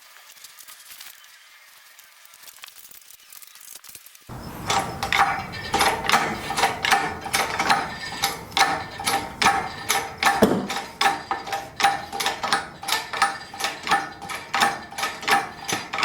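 A ratchet clicking in a quick, steady rhythm, starting suddenly about four seconds in after a quiet stretch.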